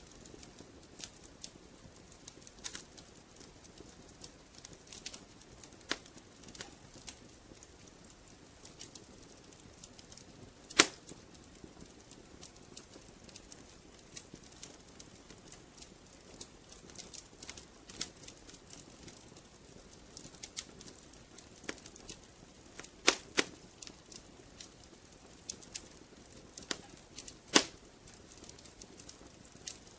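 Wood fire crackling in a fireplace: irregular small clicks over a faint hiss, with a few louder pops, the loudest about 11 seconds in and two close together near 23 seconds.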